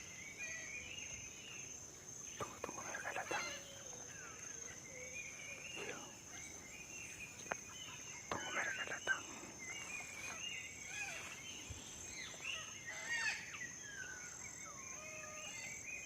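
Cockatoos screeching and calling, several harsh raspy calls standing out among many shorter chirps, over a steady high-pitched insect drone.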